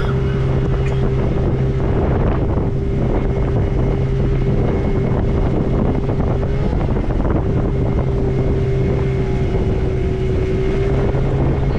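Motorboat engine running at a steady speed, a constant hum with a steady higher tone above it, over rushing wind and water noise.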